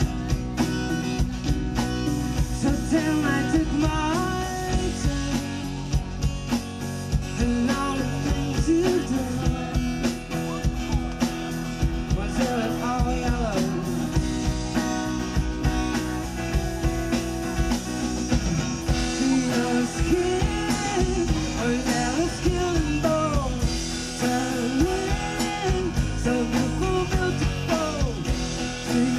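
Live band music with a singer, guitar and a steady beat.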